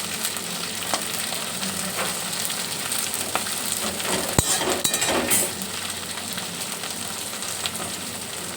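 Carrots and green beans sizzling as they fry in hot oil and ghee in a kadai. Scattered clicks of a utensil stirring, with a sharp click about four and a half seconds in and a louder stretch of stirring just after.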